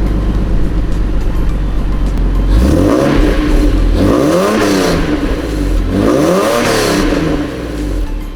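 Lexus IS300's 2JZ-GE straight-six, fitted with aftermarket exhaust headers, idling and then revved up and back down a few times from about two and a half seconds in.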